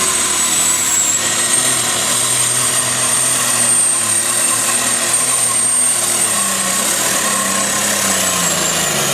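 Turbocharged diesel engine of a pulling tractor running hard at full throttle, with a loud, steady high turbo whine over the engine noise. Near the end the pitch drops as the engine is throttled back.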